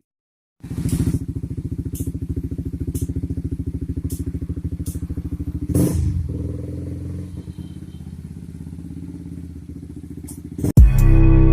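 Honda CBR150's single-cylinder engine idling through a Tridente Ronin aftermarket racing exhaust, a steady rapid beat that gets quieter about six seconds in. Music starts near the end.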